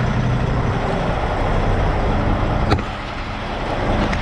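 Semi truck's diesel engine idling steadily, with one sharp click a little over halfway through.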